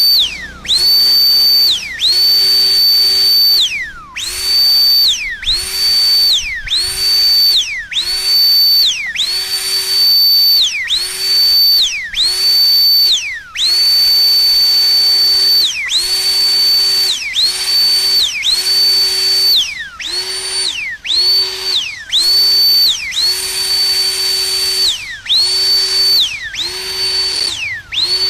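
Jet blower's high-speed fan run in short bursts about once a second, some held longer: each burst jumps quickly to a steady high whine with rushing air, then the pitch falls away as the motor winds down.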